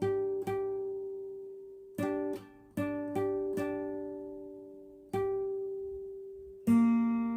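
A guitar strummed on one chord, about nine single strums at a loose, uneven pace, each left to ring out and fade; the loudest strum comes near the end.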